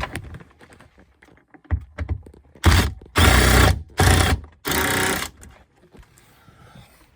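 Power driver with a T25 Torx bit backing out sun-visor screws, running in four short bursts in the second half.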